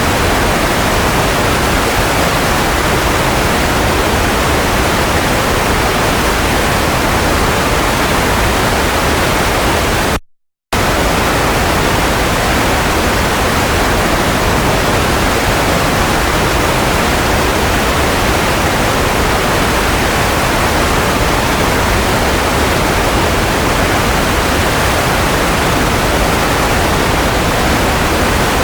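Steady white noise, an even hiss without any tone, that drops out to silence for about half a second some ten seconds in before resuming.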